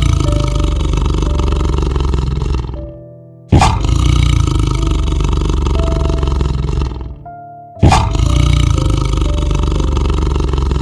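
A deep, loud animal roar, heard three times in a row: each lasts about three seconds, and the second and third start suddenly. Light background music plays under the roars.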